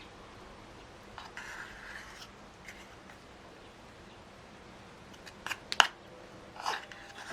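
Objects being handled: a soft rustle, then a few sharp clicks and clacks, the loudest just before six seconds in.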